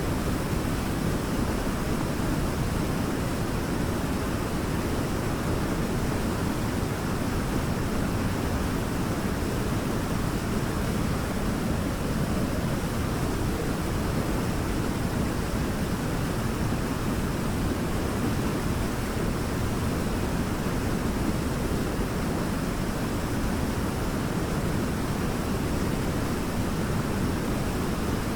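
Waterfall pouring steadily: an unbroken rush of falling water, heaviest in the low tones.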